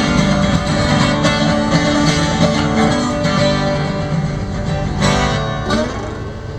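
Acoustic guitar playing a blues instrumental passage, strummed and picked chords ringing on.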